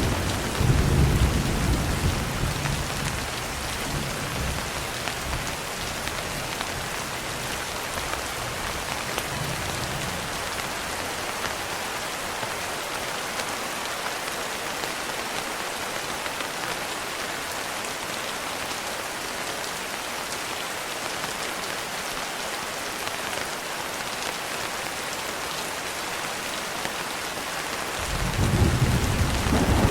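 Steady rain falling, a constant hiss. A low rumble of thunder fades out over the first few seconds, and another rumble of thunder rises near the end.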